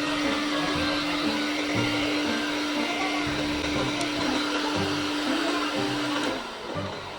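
Konka anion hair dryer running on its cold-air setting: a steady rush of air over a steady motor hum, which stops about six seconds in.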